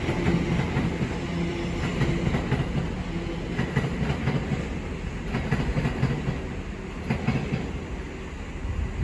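TfL Rail Class 345 electric train pulling out of the station, with a steady hum and its wheels clicking over rail joints every second or so. The sound eases off slightly as it goes.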